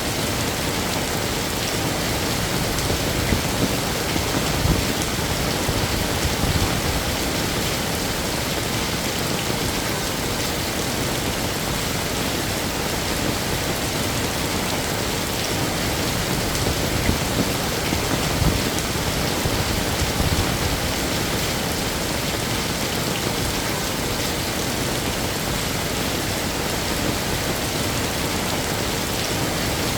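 Heavy rain falling steadily, a dense, even hiss with occasional louder patters.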